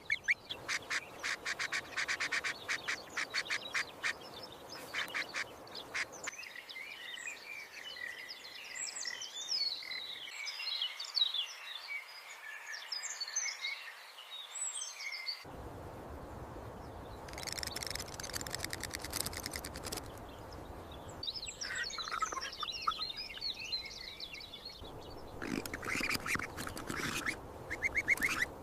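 Bird calls in several short clips joined together: rapid trains of harsh pulsed calls alternate with busy, high twittering chirps, and the background noise changes abruptly at each cut.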